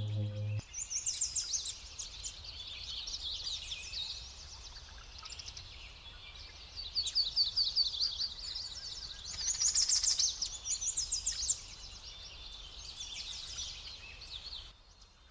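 Songbirds singing: a chorus of quick, repeated chirps and trills in overlapping phrases. A sustained low musical drone cuts off about half a second in, and the birdsong fades shortly before the end.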